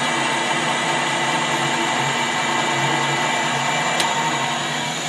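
Metal lathe running steadily under its motor and gearing, a constant mechanical hum with several steady tones. A single sharp click comes about four seconds in.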